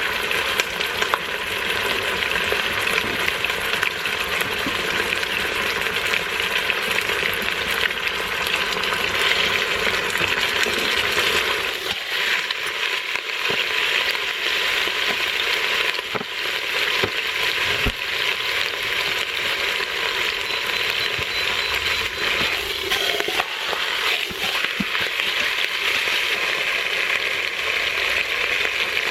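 Beef chuck roast searing in hot oil in an Instant Pot on the sauté setting, sizzling steadily.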